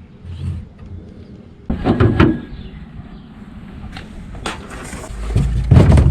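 Clattering knocks and thumps: a loud burst of knocking about two seconds in, a few sharp clicks later, and heavier thumping over a low rumble near the end.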